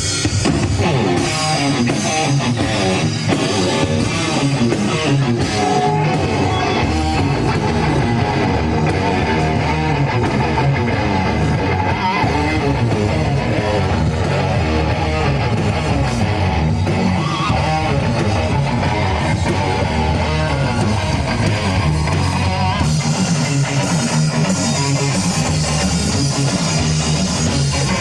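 Rock band playing live: electric guitars and a drum kit.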